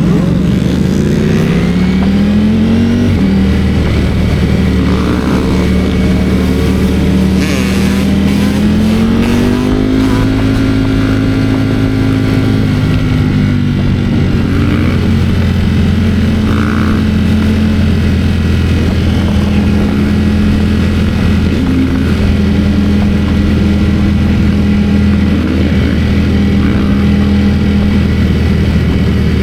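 Ducati Streetfighter V4 S motorcycle engine running under way, heard from the rider's camera. The revs climb near the start, climb again about ten seconds in and ease off a few seconds later, then hold steady at cruising speed.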